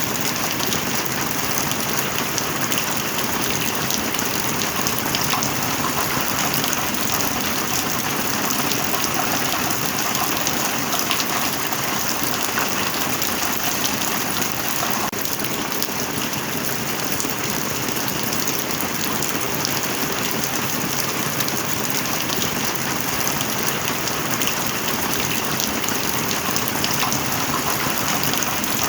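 Heavy rain falling steadily: a dense, even hiss made of countless small drop impacts.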